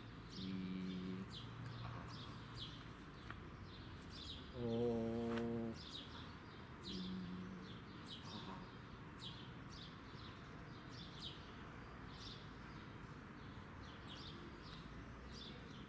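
Small birds chirping over and over, short falling chirps about twice a second. Three brief, steady, low pitched tones sound near the start, about five seconds in and about seven seconds in.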